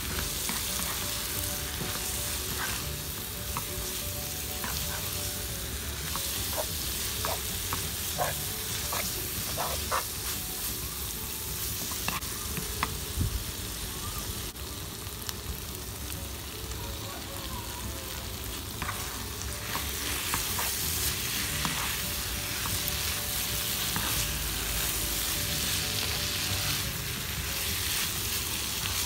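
Instant noodles and tofu sizzling in a frying pan as a wooden spatula stirs and tosses them, with scattered light clicks and scrapes of the spatula against the pan. The sizzle grows stronger in the last third.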